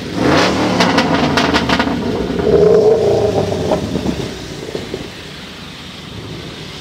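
Car exhaust revved hard, with a quick run of sharp pops in the first two seconds. It is loudest about three seconds in, then dies down to a steady low background.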